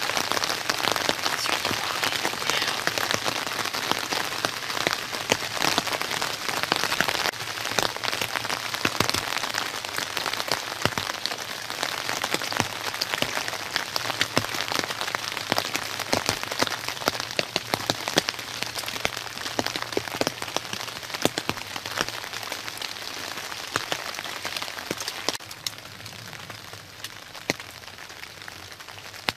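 Steady rain falling on and around a hunting ground blind, with many sharp close drop hits. It turns quieter about four seconds before the end.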